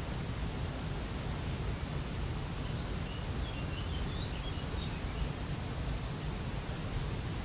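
Steady rush of falling water from a waterfall. A small bird chirps faintly a few times about halfway through.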